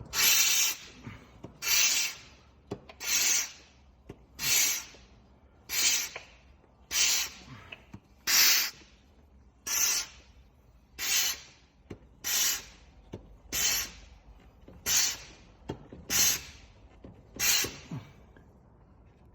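Hand-operated suction pump being worked in steady strokes, a hiss with each pull, about fourteen strokes at roughly one every 1.3 seconds, stopping near the end. It is drawing excess fluid back out of an overfilled reservoir.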